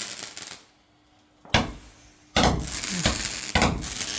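An 18-shot Roman candle firework cake firing: after a brief lull, sharp bangs roughly every half second to a second from about one and a half seconds in, each followed by a hissing, crackling trail.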